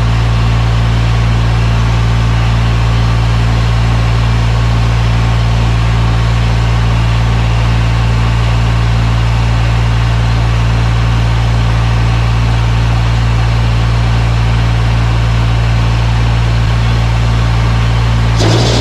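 Diesel tractor engine running loudly and steadily at idle, its sound shifting just before the end.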